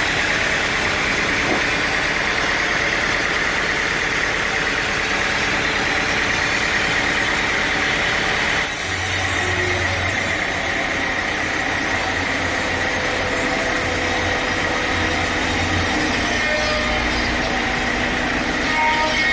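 Sawmill machinery running steadily with an engine hum and a constant high whine. The sound changes abruptly about nine seconds in, and a deeper hum comes in.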